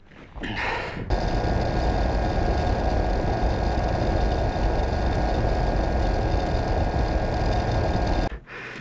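A vehicle's motor running steadily at constant speed over a heavy low rumble. It starts abruptly about a second in and cuts off shortly before the end.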